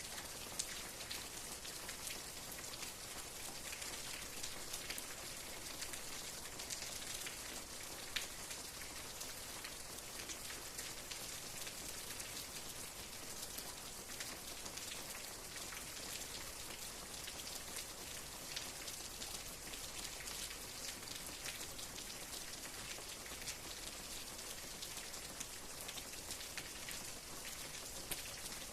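Steady rain falling, a continuous hiss with many fine, crisp drop ticks and now and then a slightly louder single drop.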